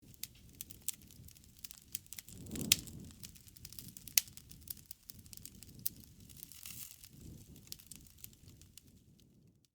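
Campfire burning: irregular sharp crackles and snaps of wood over a low rumble of the flames, with a louder pop about two and a half seconds in and another sharp crack about four seconds in.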